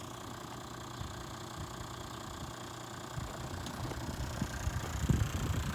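Toyota 1HD-FTE straight-six turbodiesel of a Hino Liesse II bus idling with a steady low rumble, growing a little louder with a few stronger low thumps near the end.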